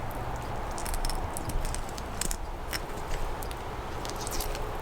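Grohmann No. 2 trout and bird knife cutting through trout flesh, with small wet crackles and scattered clicks over a steady low background rumble.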